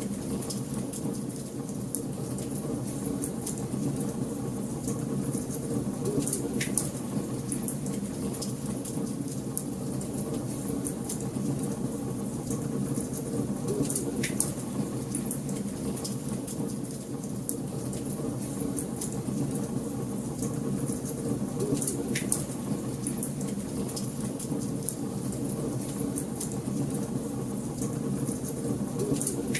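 Wood fire crackling steadily in a fireplace, with many small snaps and a few louder pops about eight seconds apart.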